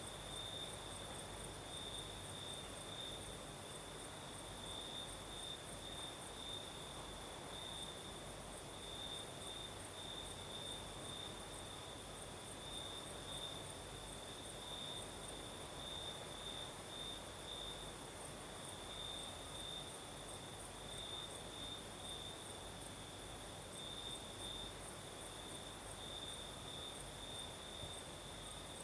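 Crickets singing: a steady, high-pitched trill that pulses gently, over the soft hiss of a night breeze.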